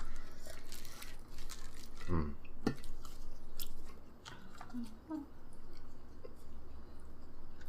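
Close-up eating sounds: chewing and biting food, with scattered small wet clicks of the mouth, louder in the first half.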